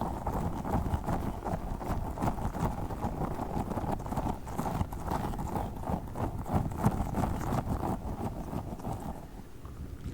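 Tiny spiky Orbeez-filled squishy balls being squeezed and handled: a quick, uneven run of soft squishes and clicks.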